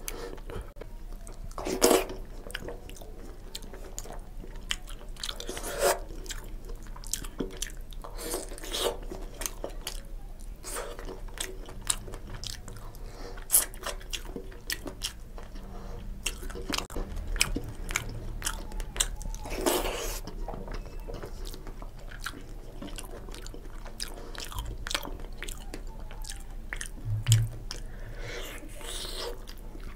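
Close-miked chewing and wet mouth sounds of a person eating khichuri and fried hilsa fish by hand: a continuous run of small smacks and clicks, with a few louder smacks spread through it.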